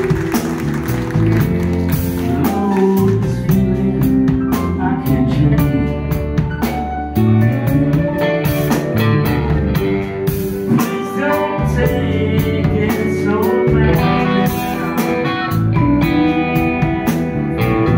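Live rock band playing: electric guitars, one of them sliding between notes, over bass and drums, with a voice singing.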